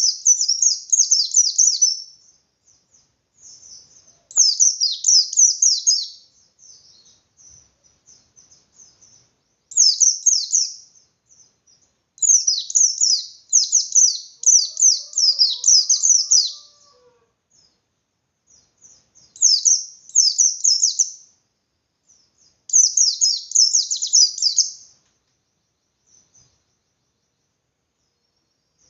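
Pleci (white-eye) of the bustomi type singing its rapid, high, chattering 'ngalas' song in repeated phrases of one to four seconds with short pauses between them.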